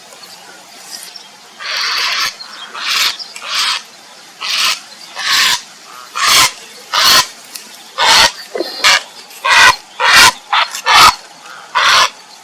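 Grey heron (Ardea cinerea) giving a series of short, harsh calls, each well under a second. The first is the longest, and the calls come closer together in the second half.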